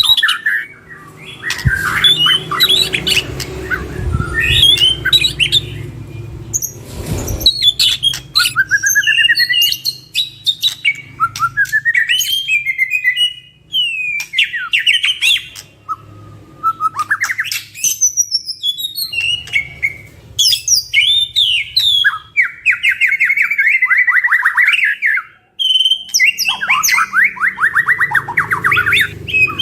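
White-rumped shamas singing a loud, varied song of whistles, chirps and fast rattling trills.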